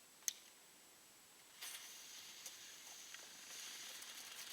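A sharp click, then about a second and a half in a small consumer firework starts hissing, with faint crackles in the hiss.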